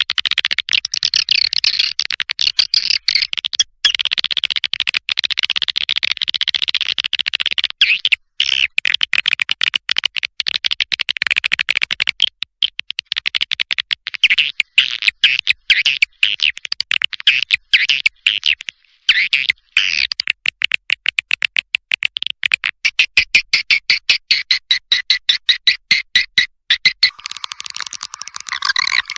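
Swiftlet lure recording ('suara panggil', calling sound) playing: dense, rapid, high twittering chirps in quick bursts with short breaks. Near the end it settles into a steadier, lower chirping.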